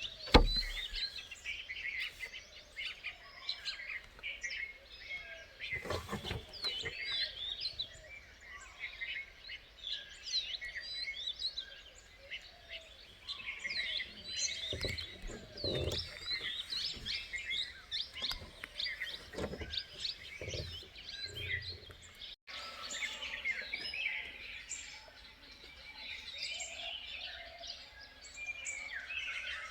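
Dense chorus of many small birds chirping and trilling, with a sharp knock about half a second in and a few soft low thumps later.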